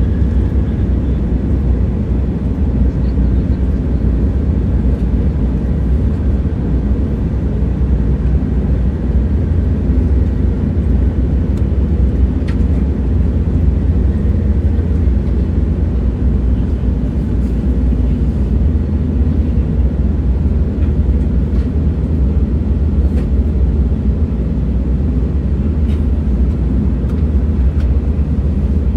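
Moving train running with a steady low rumble that holds even throughout, with a few faint light clicks scattered through it.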